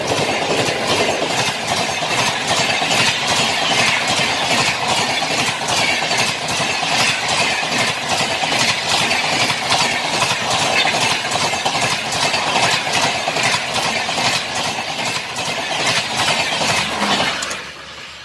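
Express train's passenger coaches rushing past close by at speed: a steady loud running rush with rapid clattering of wheels over the rail joints. The sound drops away suddenly near the end.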